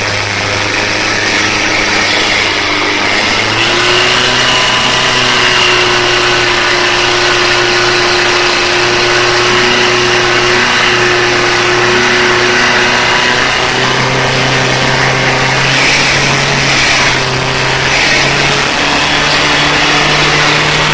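Honda CB1300's inline four-cylinder engine running at steady, held revs through an aftermarket exhaust, stepping up a little about three and a half seconds in and again near the end. It is being run to heat the freshly polished header pipes so they take on heat colour.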